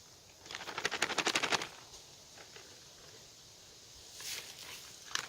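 A quick, even run of clicks, about ten a second for about a second, from a utensil working a container while powdered peanut butter is mixed with water; a few fainter handling clicks come near the end.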